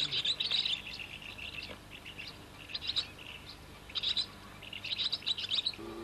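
Small birds twittering: several bursts of rapid, high chirps, with quieter chirping between them.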